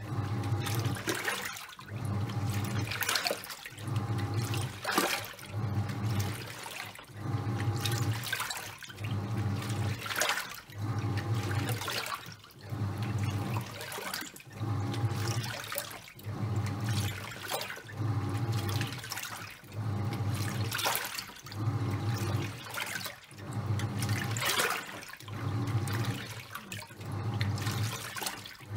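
Top-loading washing machine in its wash cycle, the pulsator motor humming in short strokes about once a second with water and towels sloshing and splashing in the tub between them.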